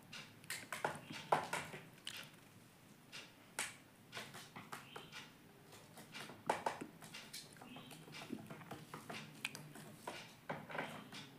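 Indian ringneck parrot pecking and tapping irregularly, with a few brief chirps.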